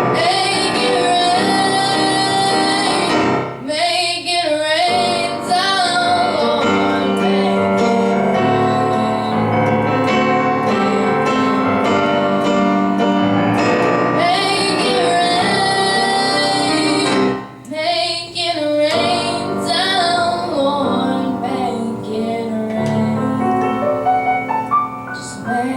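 A young girl singing a slow ballad over piano accompaniment, with two brief breaks between sung phrases.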